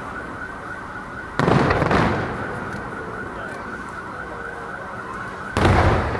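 Aerial firework shells bursting: two loud booms about four seconds apart, each fading over about a second, with crackling in between.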